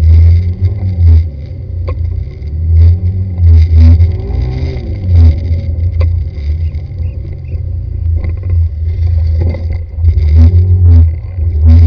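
A car engine running with a heavy low rumble, its pitch rising and falling several times as it revs, with scattered knocks and rattles.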